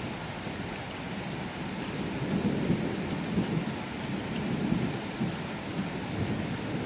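Thunderstorm: steady rain with a low rolling rumble of thunder that swells about two seconds in and fades away a few seconds later.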